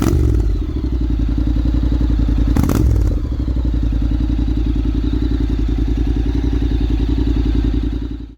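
Honda Forza 750's parallel-twin engine through a Mivv Delta Race slip-on exhaust, idling with two quick throttle blips, one at the very start and one about two and a half seconds in, the revs dropping straight back to idle each time. The sound cuts off just before the end.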